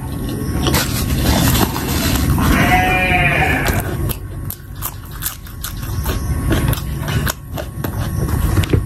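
Close-miked chewing of a fried pakoda, wet mouth sounds with many small crunchy clicks. About two seconds in, a drawn-out nasal hum from the eater rises and then falls in pitch and lasts over a second.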